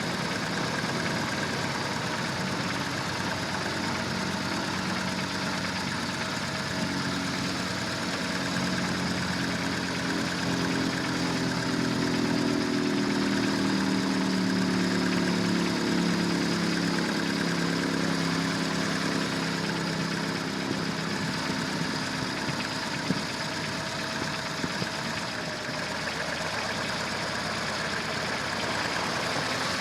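Steady running of a motor vehicle engine, with a second, stronger engine hum swelling up about a third of the way in, sliding slightly down in pitch and fading out about two-thirds through.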